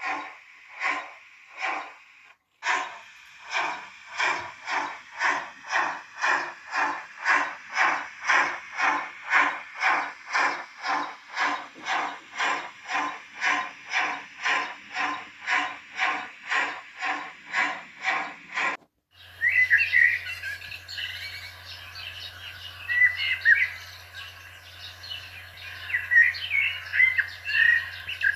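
Steam-exhaust chuffs from the DCC sound decoder of a Liliput model DRG class 75 tank locomotive, evenly spaced at about two a second and picking up slightly in pace. They cut off abruptly about two-thirds of the way in and give way to bird chirping over a steady low hum.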